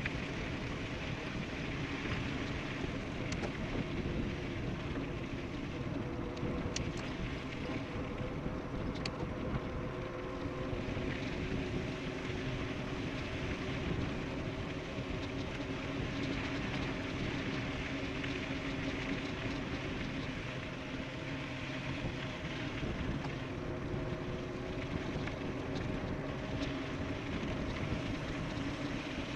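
Steady rush of wind and tyre noise from an e-bike riding fast downhill on pavement, with a faint steady hum underneath and a few light ticks.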